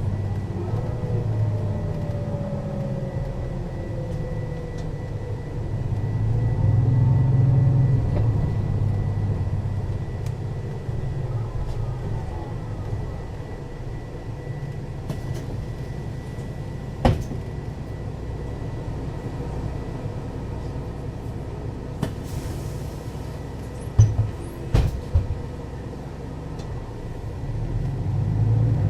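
Mercedes-Benz O 530 Citaro city bus's diesel engine running under way, swelling as it pulls about a third of the way in, easing off, then building again near the end. A sharp knock cuts in past the middle, followed by a short hiss and a few more knocks.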